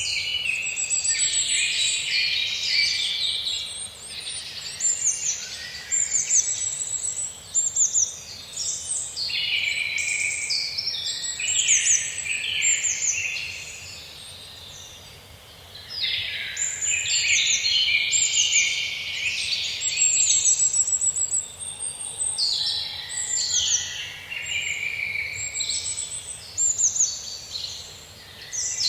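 Several birds singing and calling together in a forest, dense overlapping chirps and rapid trills, with a short lull about halfway through.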